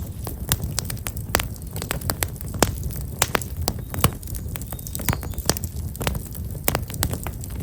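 Black locust firewood burning in an open wood fire, crackling with many irregular sharp pops over a steady low rumble.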